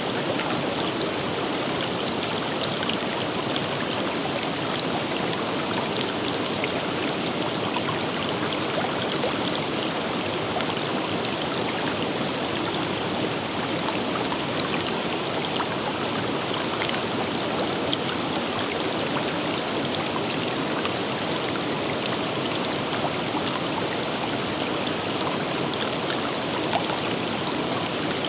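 A forest river running steadily over rocks, a constant rushing and babbling with small splashes scattered through it.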